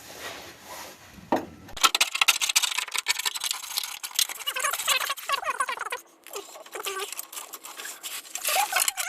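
Hand scraper scratching old undercoating off a car's underside: rapid, irregular scrapes and clicks that start about two seconds in and keep going.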